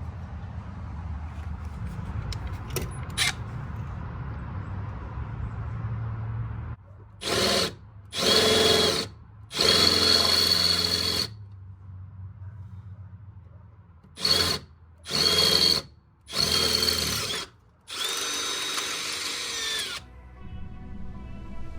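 A power drill run in seven short bursts of about half a second to two seconds each, its motor whine holding steady through each burst. Before the first burst there is only a steady low hum.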